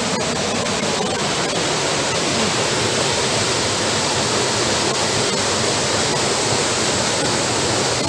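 Waterfall rushing: falling water making a loud, even noise with no let-up.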